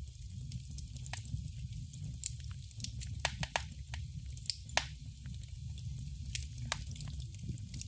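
Fire crackling in a fireplace: irregular sharp pops and snaps over a steady low rumble of flames.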